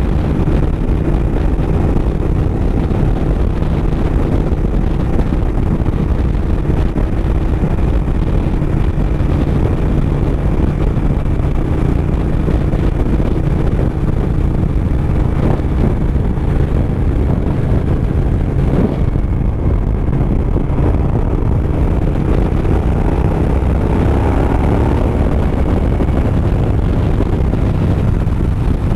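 Suzuki SV1000S's 90-degree V-twin engine running at a steady cruising speed, heard from a bike-mounted camera with wind and road noise.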